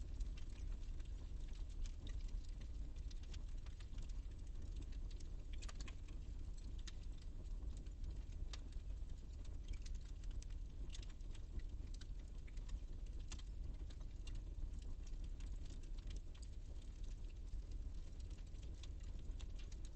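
Fire burning in a fireplace, crackling with irregular small pops and snaps over a low steady rumble.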